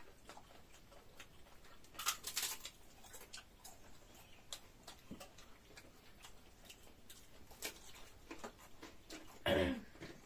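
Close-up eating sounds of someone chewing soft dhido and nettle soup: scattered small wet clicks and smacks of the mouth, a louder noisy sound about two seconds in, and a short grunt of the voice near the end.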